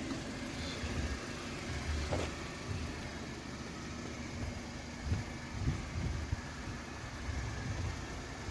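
C 200's 1.5-litre four-cylinder petrol engine idling steadily.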